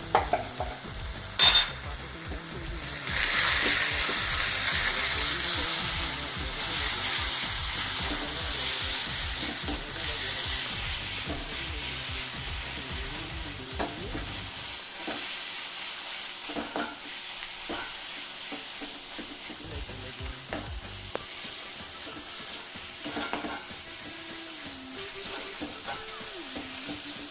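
Onions and freshly added spice powders frying and sizzling in a nonstick kadai as a wooden spatula stirs and scrapes them, the spices being sautéed until their raw smell is gone. A sharp knock sounds about a second and a half in; the sizzle grows louder about three seconds in, then slowly fades.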